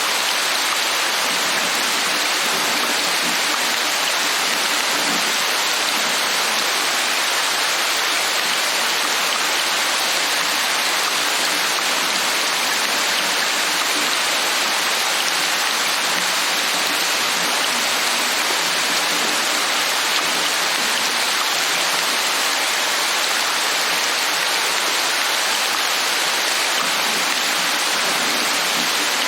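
Steady, heavy rain: an even, unbroken hiss with no distinct drops or thunder standing out.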